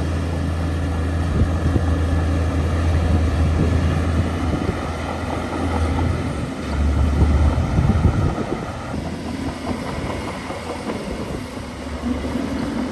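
Heavy diesel engine of a crawler bulldozer running under load, a steady low drone that swells about seven seconds in and eases off about nine seconds in.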